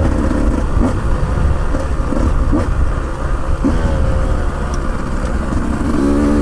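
Motorcycle engine running under load on a muddy trail ride, its note shifting up and down with the throttle over a heavy, steady low rumble.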